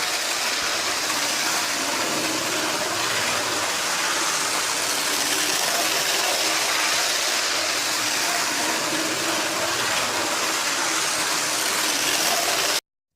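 Model train running at full power on its track: a steady whirring noise of motor and wheels on rails. It cuts off suddenly near the end.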